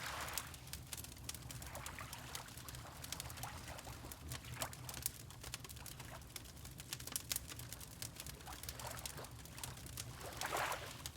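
Wood fire crackling with frequent small sharp pops, over water lapping, with a swell of water at the start and another about ten and a half seconds in. A steady low rumble runs underneath.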